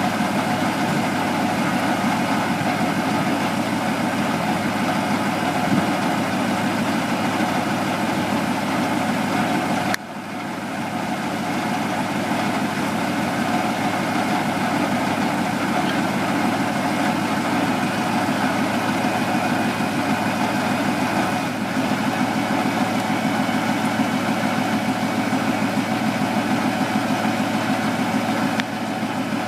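Heavy truck engine idling steadily, with a brief dip in level about ten seconds in and again near the end.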